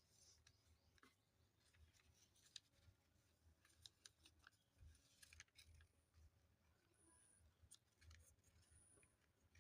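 Very faint handling of paper: scattered soft clicks and crackles of a sheet being worked by hand, over near-silent room tone.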